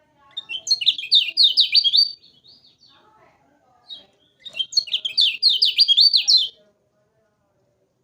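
Kecial kuning songbird singing two loud, rapid phrases of repeated high, down-slurred chattering notes, about six notes a second, with a short pause between the phrases.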